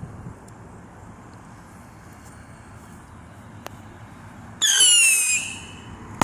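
A whistling firework going off: a loud shrill whistle lasting about a second, its pitch falling as it fades, followed near the end by a sharp bang.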